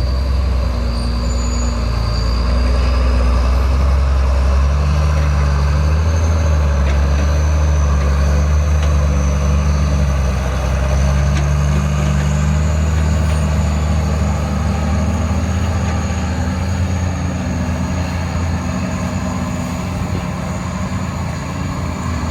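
Hino ten-wheel dump truck's diesel engine running steadily, its pitch stepping up and down, with a thin high turbo whistle over it. It sounds much like a rice combine harvester's engine.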